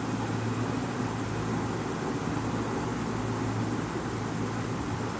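Steady background hum and hiss, with no changes.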